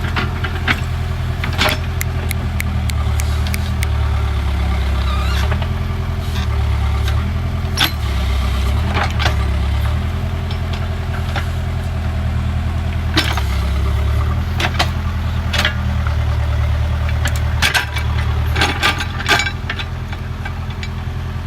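Backhoe loader's diesel engine running steadily, its note dipping and recovering again and again as the hydraulics are worked. Sharp metallic clanks and knocks come at irregular moments throughout.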